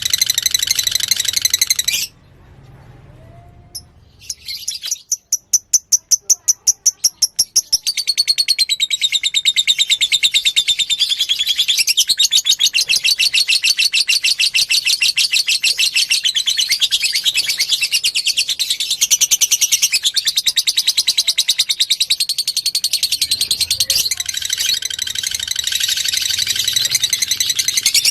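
Lovebird singing a long, rapid chattering trill. It breaks off about two seconds in, starts again a couple of seconds later as evenly spaced chirps, and these run into continuous fast chatter.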